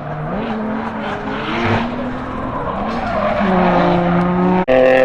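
Drift car engine revving, its pitch rising and falling, over tire skid noise. Near the end the sound drops out for an instant and comes back as a louder, steadier engine note.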